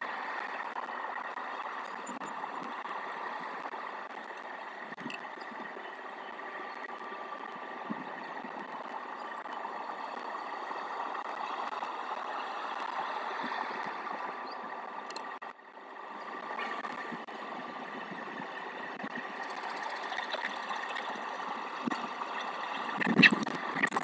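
Steady background hum and hiss with a few constant tones, broken by a brief drop-out about fifteen seconds in; a few louder knocks come near the end.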